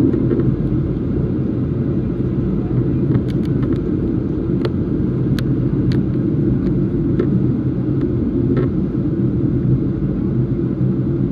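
Boeing 737 cabin noise: a steady low rumble of the engines and airflow, with a few faint clicks.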